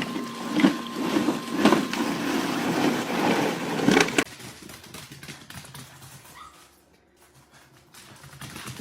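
A dog vocalising, with a few sharp knocks, cutting off suddenly about four seconds in. Only faint sounds follow.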